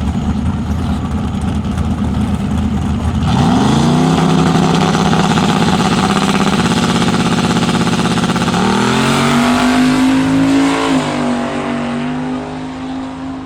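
Drag racing car's engine at full throttle, its pitch climbing sharply about three seconds in and holding. About eight and a half seconds in the note drops and climbs again, as at a gear change, then it eases off near the end. The engine sounds crazy.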